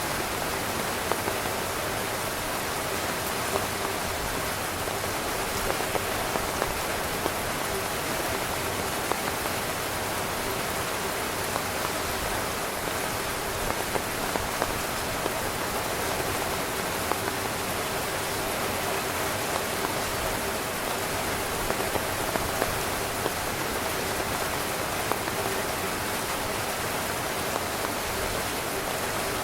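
Heavy rain falling steadily on a tent's fabric: a dense, even hiss of rain with many individual drops ticking and pattering, a few louder drops standing out.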